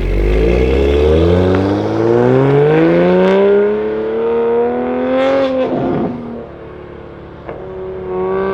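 A sports car accelerating hard past, its engine note climbing steadily in pitch for about five seconds, then breaking off and falling away sharply. A quieter engine note falls away near the end.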